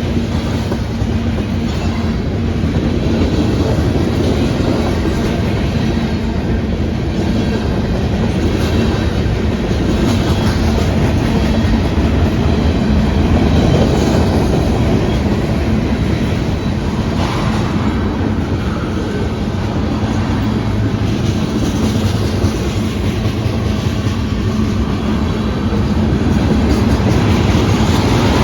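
Freight train cars rolling past at speed, their steel wheels clacking over the rail joints in a steady rumble.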